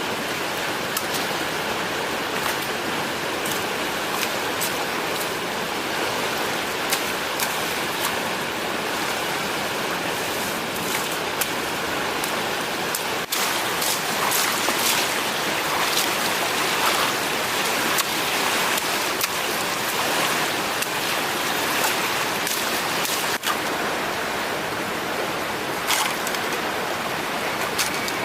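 Steady rush of water, with many small sharp ticks scattered through it.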